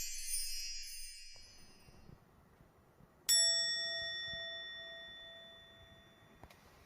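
A single bright chime struck about three seconds in, ringing with clear overtones and fading steadily for about three seconds before it cuts off, after the last of the background music dies away.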